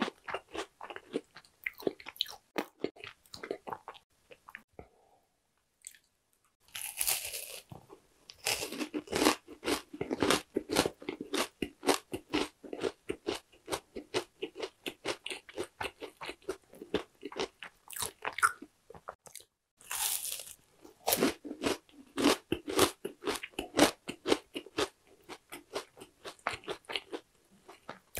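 Close-miked crunching of oranda, a crisp puffed-grain bar bound with syrup, being bitten and chewed. There is a sharp, loud bite about seven seconds in and another near twenty seconds, each followed by dense rapid crunching, with a brief pause between five and six seconds.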